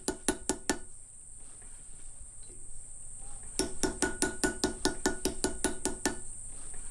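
Steady high-pitched insect drone with runs of rhythmic clicking pulses, about five a second. The clicking stops about a second in and starts again about three and a half seconds in.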